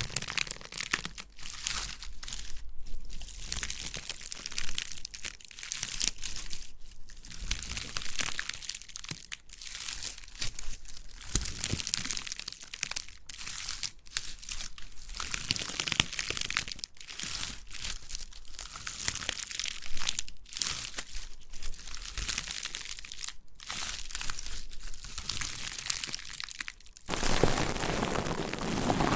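Close-miked ASMR trigger sounds: dense crackling and crinkling with many small sharp clicks, as an object is rubbed and squeezed against a stereo microphone. Near the end it changes abruptly to a steadier, fuller hiss.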